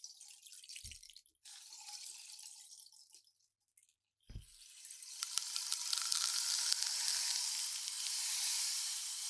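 Rain stick tipped over, its pebbles trickling down inside the tube in a rain-like patter that dies away about three and a half seconds in. A low thump follows, then a new, louder cascade builds and keeps running.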